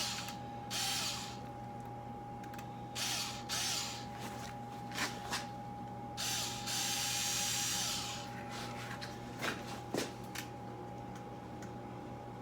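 Ryobi power screwdriver running in short bursts to back out screws on the motorcycle's carburetors, with one longer run of about two seconds past the middle. A few sharp clicks from the tool and parts fall between the runs.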